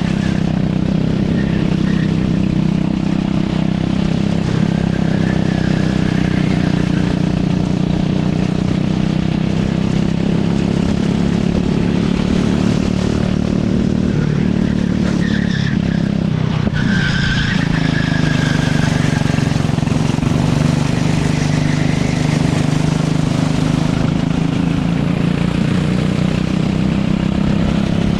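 Racing kart engine running hard on a lap, its pitch rising and falling with the throttle. The note dips about halfway through, then climbs again, with a few short high squeals.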